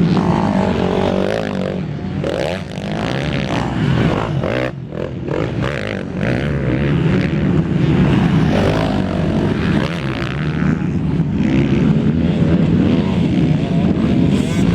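250 cc racing motorcycle engines revving and passing, their pitch rising and falling continuously, with more than one engine heard at once.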